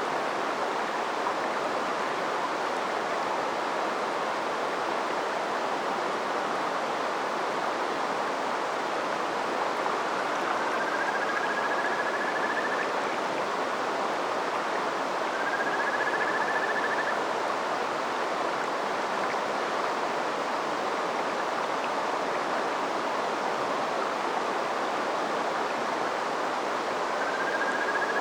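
River water flowing steadily over a shallow bed, an even rushing murmur. Three times, a faint drawn-out whistle rises slightly in pitch above the water, each lasting a second or two.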